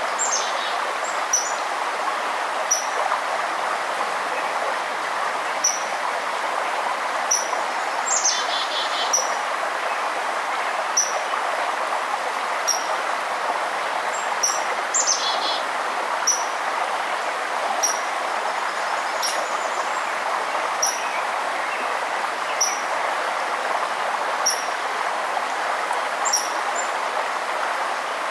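Steady rush of running water from a forest stream, with a small bird repeating a short, high chirp every second or two and another bird singing a brief, busier phrase twice, about a third and about halfway through.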